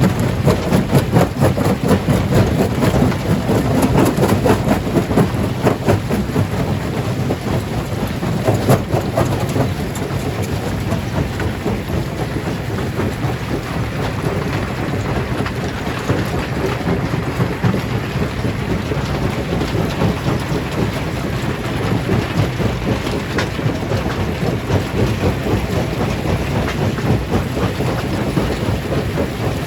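Rock crusher working through large stones: a continuous heavy rumble full of cracking and clattering rock, with the cracks densest in roughly the first ten seconds before settling to a steadier grind.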